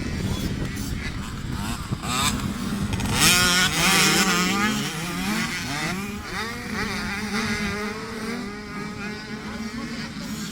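Several motocross bike engines revving, their pitches rising and falling against each other, loudest about three to four seconds in, over a steady engine drone.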